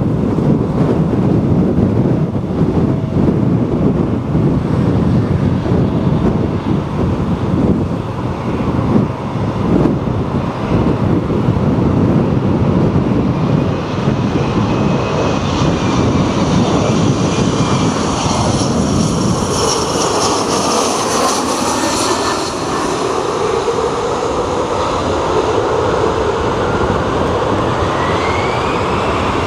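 Jet airliner on landing approach passing close, its engine noise building through the second half with a high whine and shifting pitch. Heavy wind buffets the microphone throughout, the rumble strongest in the first half.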